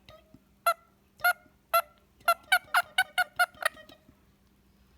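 Indian ringneck parrot calling in short, pitched squawks: three spaced calls, then a quick run of about seven at roughly four a second.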